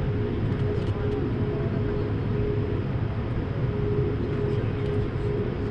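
Steady cabin noise of an Airbus A220-300 in flight: a low rumble of airflow and its Pratt & Whitney PW1500G geared turbofan engines, with a thin steady hum held at one pitch above it.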